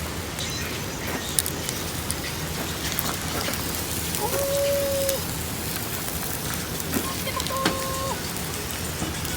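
Wood campfire crackling: a steady hiss with scattered sharp pops. Two short steady hums sound, one near the middle and one near the end.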